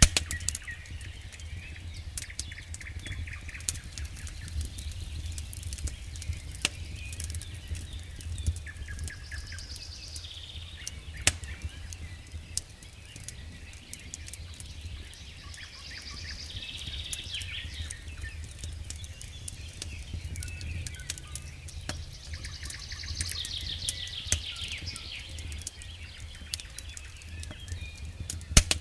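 Campfire crackling with scattered sharp pops, over a steady low rumble. Small birds sing several trilled phrases in the background.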